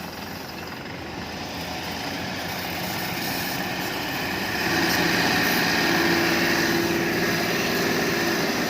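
Truck-mounted water sprinkler running: the engine and pump with the rush of the water jet. It grows gradually louder through the first half and then holds steady, with a steady hum underneath.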